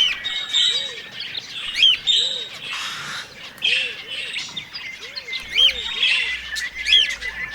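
A flock of budgerigars chirping and chattering, with many short rising-and-falling calls overlapping. A soft, low arched note repeats about once a second underneath.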